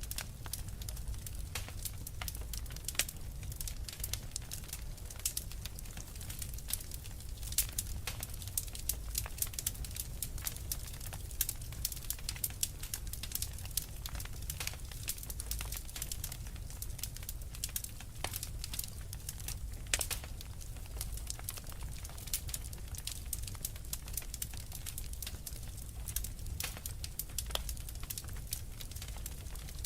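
Wood fire crackling in a fireplace: many irregular sharp pops and snaps over a low steady rumble of burning.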